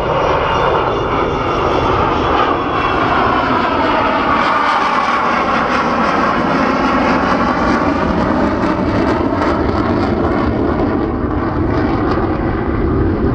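Avro Vulcan bomber's four Rolls-Royce Olympus jet engines running loud and steady as it flies past low, just after raising its undercarriage. A whining tone in the jet noise sweeps down and back up in pitch as the aircraft passes.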